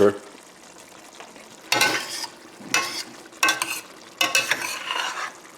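A spoon stirring a thickening, simmering sauce of chicken, potatoes and vegetables in a pan, in four or five strokes over a faint steady sizzle.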